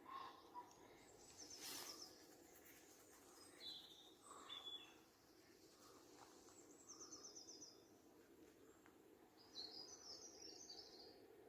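Faint birdsong: several short, high, rapid trills and chirps, about three phrases a few seconds apart, over a low steady outdoor hiss.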